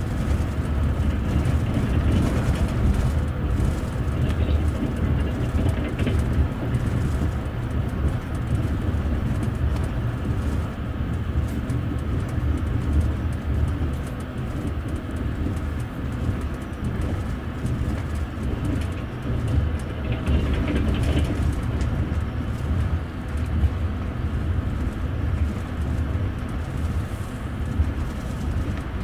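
Steady low rumble of a moving TVZ double-decker passenger rail coach, heard from inside on the upper deck as its wheels run over the rails, with small irregular knocks.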